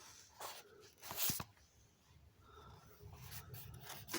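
Paper rustling as the pages of a book are leafed through, with a louder rustle about a second in and a few small clicks and scrapes.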